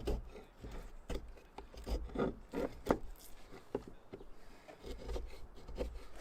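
A hand tool scraping and shaving a wooden axe handle as it is carved, in irregular strokes about one or two a second.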